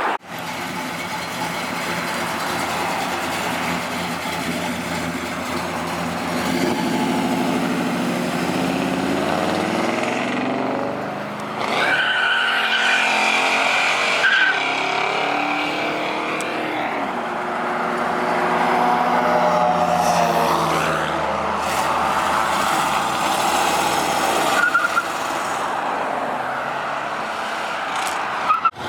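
Car engines revving and accelerating, rising and falling in pitch, with tyre squeal in places.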